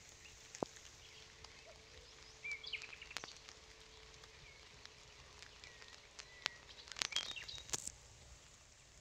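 Birds giving short chirping calls, some sliding in pitch, about two and a half seconds in and again between about six and eight seconds. Several sharp clicks stand out over a low hiss, the loudest about half a second in and around seven seconds.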